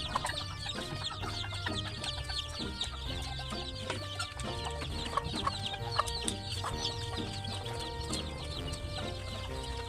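Birds calling, many short chirps and clucks overlapping, over a steady low hum.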